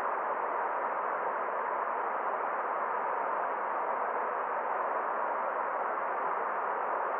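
Forest stream water running, a steady even rush with no change.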